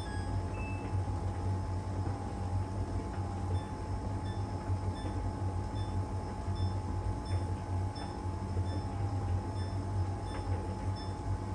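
LG heat pump tumble dryer running mid-cycle in its drying phase: a steady low machine hum from the drum motor and heat pump compressor, with faint light ticks recurring a little faster than once a second as the drum turns.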